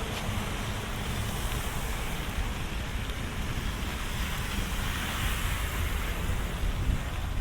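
Rainy city street ambience: a steady hiss of rain and wet-road traffic noise, with a low rumble underneath.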